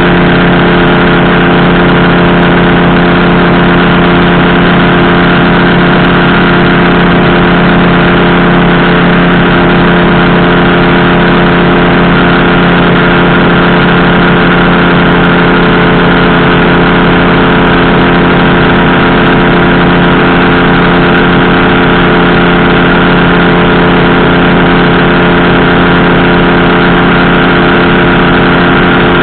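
Powered parachute engine and propeller running at a steady throttle: a loud, continuous drone that holds one pitch throughout.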